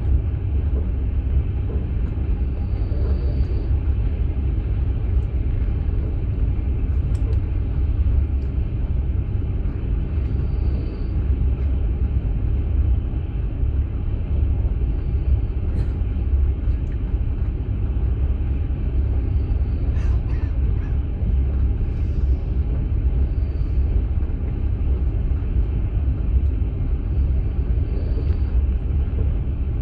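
Passenger train running along the line, heard from inside a platzkart sleeper carriage: a steady low rumble with a few faint clicks here and there.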